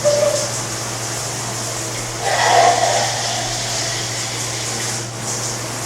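Shower water running steadily, with a cat's low, drawn-out meow about two seconds in, from a cat being washed.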